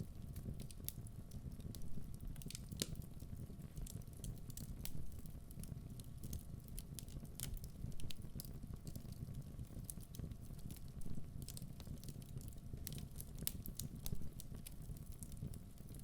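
Wood fire burning in a fireplace: a steady low rumble of the flames with irregular crackles and frequent sharp pops from the burning logs.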